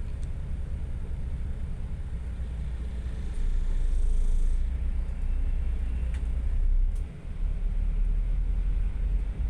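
Steady low rumble of road traffic, louder for about a second near the middle, with a few faint short clicks.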